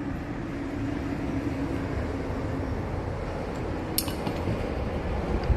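Metal parts and tools of a starter motor being handled during disassembly on the bench: a sharp metallic clink about four seconds in and a smaller one near the end, over a steady low background hum.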